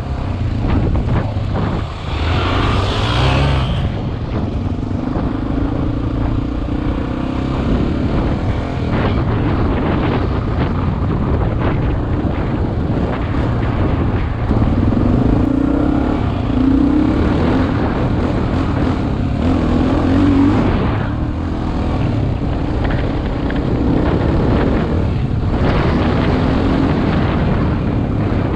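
Single-cylinder dual-sport motorcycle engine running while riding, its pitch rising and falling with the throttle, under steady wind noise on a helmet-mounted camera. A brief rush of higher noise about two to four seconds in.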